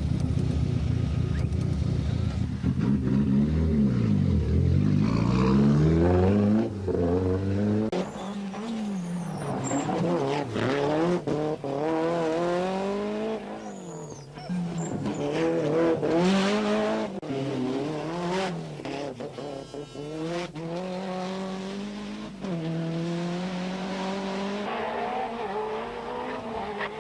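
Nissan Pulsar GTI-R rally car's turbocharged four-cylinder engine at full throttle, its pitch climbing and dropping again and again as it is driven hard through the gears.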